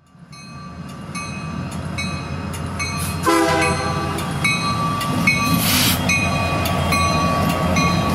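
A train: a rumbling, clattering run that grows louder over the first few seconds, with a horn sounding briefly about three seconds in.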